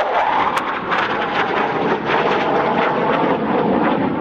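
Dassault Rafale fighter jet's twin turbofans making a display pass, a loud, steady jet noise.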